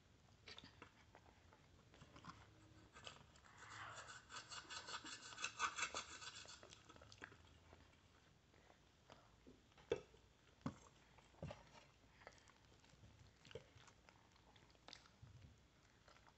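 Faint chewing for a few seconds, then scattered light clicks of a metal fork against a ceramic plate as pancake is cut.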